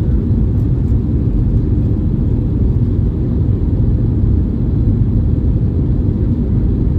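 Steady low rumble of an Airbus A321neo's engines and airflow heard inside the passenger cabin, with no change in level.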